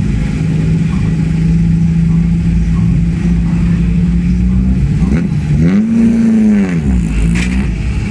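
Race-prepared VW Corrado's engine idling with a steady note, then revved in several throttle blips from about five seconds in, the pitch climbing and falling each time, one rev held a little longer than the others.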